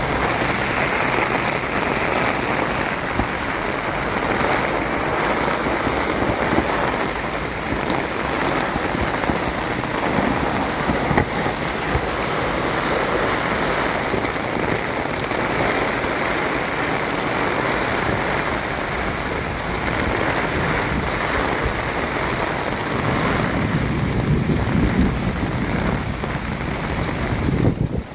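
Heavy thunderstorm rain pouring steadily, with a low rumble, likely thunder, swelling near the end.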